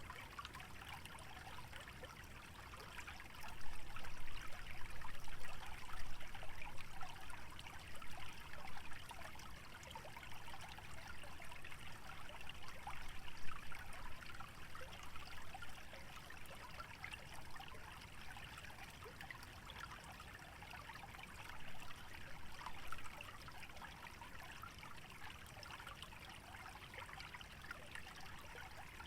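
Small stream trickling and babbling over its bed, a steady watery patter that swells louder a few times.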